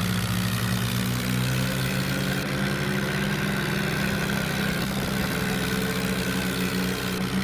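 New Holland tractor's diesel engine running steadily at a low, even speed.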